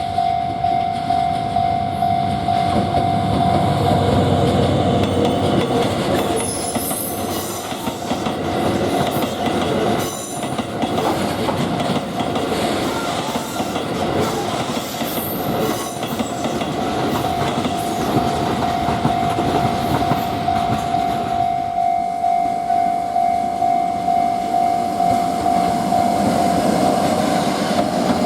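Freight train passing over a level crossing, its wagons clacking over the rail joints, while the crossing's warning bell rings in quick, even strokes.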